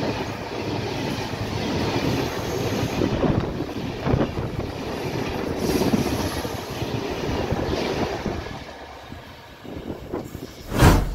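Passenger train coaches rolling past close by, a dense rumble with wheels clacking over rail joints, fading away as the last coach recedes. A short loud thump near the end.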